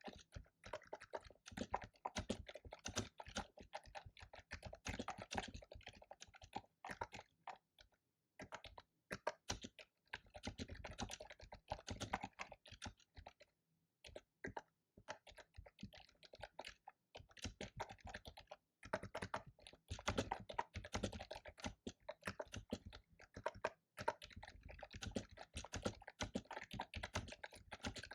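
Fast typing on a loud computer keyboard: dense runs of clicky keystrokes broken by brief pauses.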